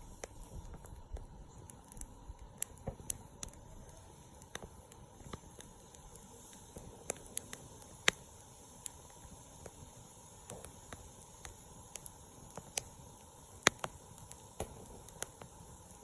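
Wood fire crackling: irregular sharp pops and clicks over a faint hiss, with a few louder snaps.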